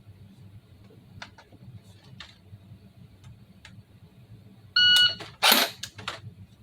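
Shot timer gives one short electronic start beep, and about three-quarters of a second later the airsoft FN P90 replica fires a single shot, taking the drill time of 0.76 seconds. Faint handling clicks come before and after the shot.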